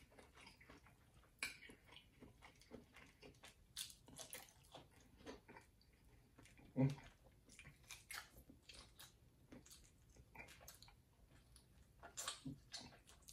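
Faint close-up chewing and mouth sounds of a person eating: soft wet clicks and smacks scattered throughout, with a brief low hum about seven seconds in.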